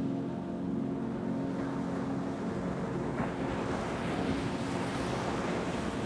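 An ocean wave washing in over a soft, sustained ambient drone: the surf builds from about two seconds in, is fullest around four to five seconds and eases back near the end.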